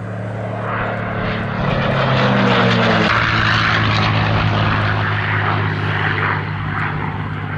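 Propeller-driven piston aircraft flying past, most likely the P-51D Mustang's Merlin V12 engine running at display power. It grows loudest about two and a half seconds in, its pitch falls as it goes by, and it stays loud as it pulls away.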